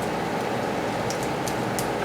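Steady background hum of shop air noise, with a few faint crackles of masking tape being handled about a second in and near the end.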